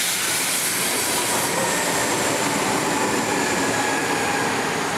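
CPTM electric commuter train moving along the platform close by: a steady rolling rumble of wheels on rail with a faint electric whine over it.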